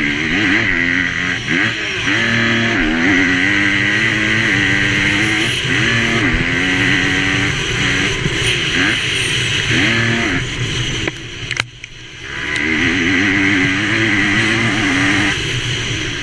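MX2 motocross bike engine revving hard, its pitch rising and falling again and again with throttle and gear changes. About eleven and a half seconds in, the throttle is briefly shut, then it revs up again.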